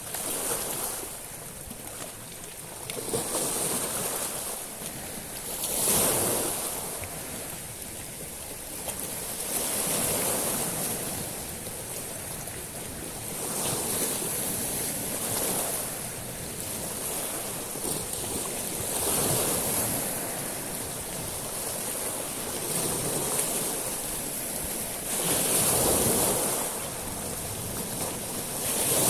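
Sea waves washing up and back over a beach of small stones, each wave swelling and then easing every four to six seconds.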